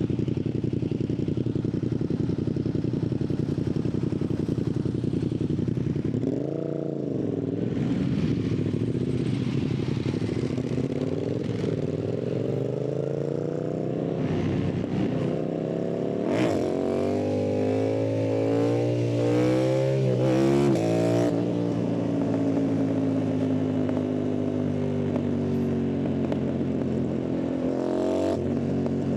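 Yamaha MT-07's 689 cc parallel-twin engine and exhaust, running steadily at first. From about six seconds in the revs rise and fall, and between about 14 and 21 seconds they climb and drop several times as the bike accelerates through the gears, before settling to a steady cruise.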